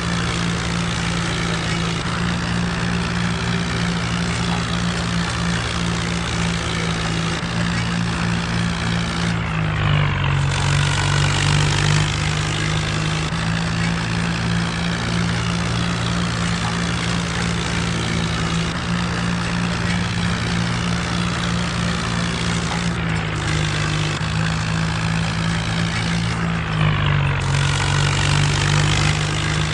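Mahindra Arjun tractor's diesel engine running steadily while working a rotavator. Its note drops and grows a little louder about ten seconds in and again near the end, as the engine takes more load.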